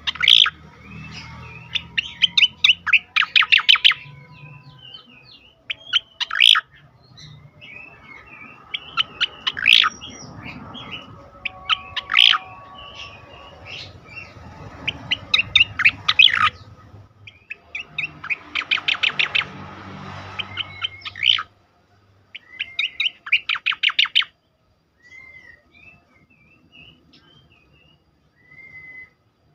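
Cucak koreng singing in 'tembakan' style: bursts of rapid, evenly repeated sharp notes, about one to two seconds each, broken by short slurred chirps, with only scattered soft chirps over the last few seconds.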